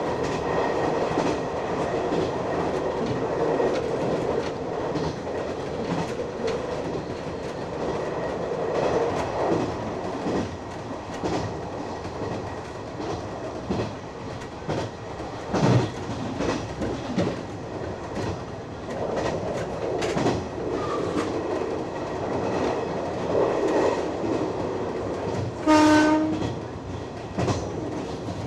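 Nishitetsu Mo200 electric railcar running, heard from inside the car and cab: steady running noise with wheels clacking over rail joints. One short horn blast about 26 seconds in.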